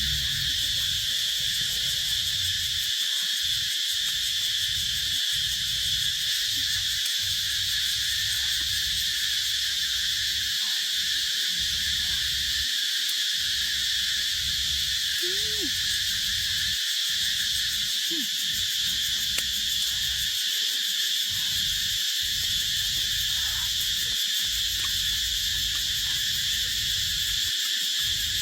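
Steady, unbroken chorus of insects, a high continuous buzzing, over an uneven low rumble.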